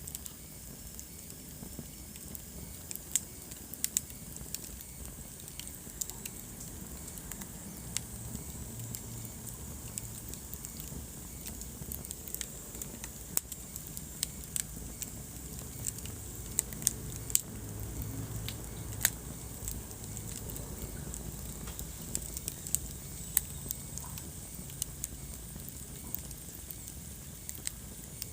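Wood fire in a fireplace crackling, with frequent irregular sharp pops over a low steady rumble of the flames.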